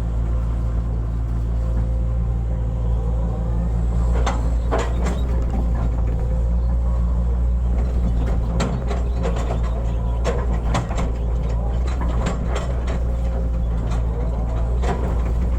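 Hitachi hydraulic excavator's diesel engine running steadily under working load, with irregular sharp knocks and clanks from the machine at work, clustered around the middle and again near the end.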